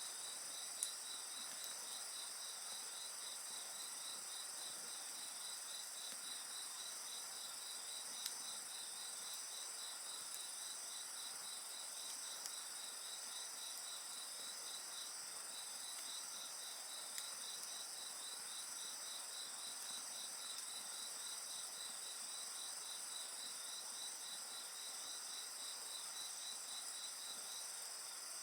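Night chorus of crickets and other insects: steady high trilling with one insect chirping in even pulses, about four a second, that pause briefly twice. A few faint sharp pops from a wood fire.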